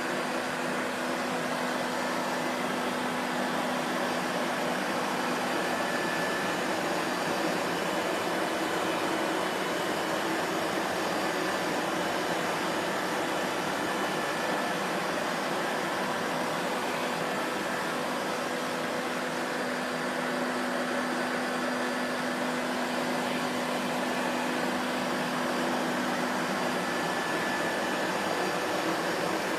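Vacuum cleaner motor running steadily: a constant whooshing hum of rushing air with a faint steady tone underneath, unchanging in level.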